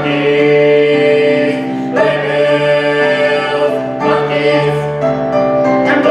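Choir singing the closing held chords of a song, the harmony shifting about once a second.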